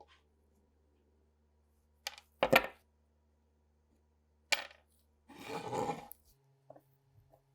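Small metal parts and tools handled on a workbench: a few sharp clicks and knocks, the loudest about two and a half seconds in, then about a second of rough rubbing, with faint ticks near the end.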